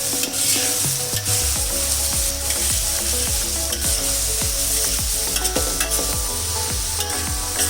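Vegetables and egg sizzling in a hot pan over a high flame while being stir-fried, with the spatula scraping and knocking against the pan now and then. The sauce has just been added, so the frying hiss is steady.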